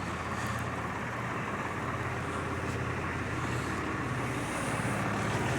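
Swaraj 855 tractor's diesel engine idling steadily.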